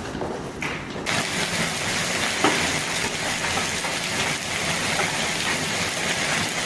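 Hail pelting down in a dense, steady clatter that starts about a second in, with a few sharper single hits standing out.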